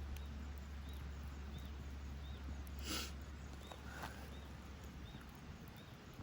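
Faint high chirps repeating about once a second over a low steady hum, with one sharp crack about three seconds in.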